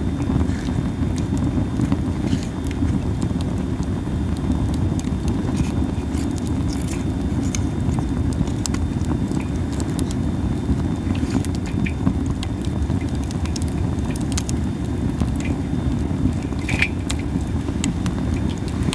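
Masaki (Japanese spindle tree) wood fire burning, with a steady low rumble under scattered sharp crackles and pops.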